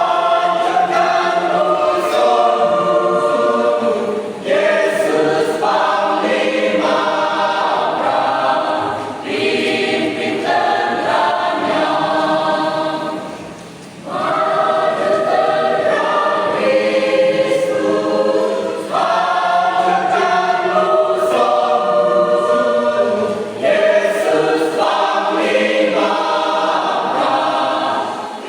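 Church congregation choir singing a hymn in phrases, with a brief break between phrases about halfway through.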